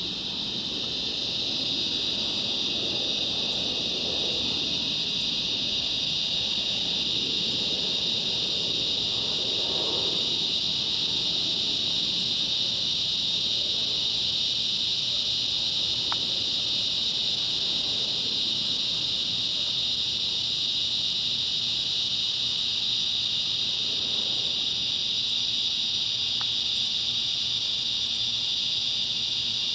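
Evening chorus of cicadas: a steady, unbroken high shrill drone, with a faint low rumble swelling under it in the first ten seconds or so.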